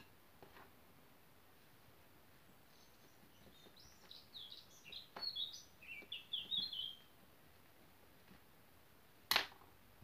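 A small bird singing a short twittering phrase of quick high chirps, stepping down in pitch toward its end. Near the end comes a single sharp click.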